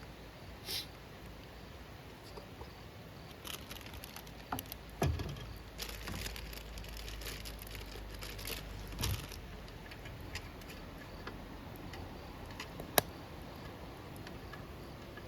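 Wood fire crackling in a campfire stand: scattered irregular clicks and pops, with one sharp pop near the end and a low rumble under denser crackling for a few seconds in the middle.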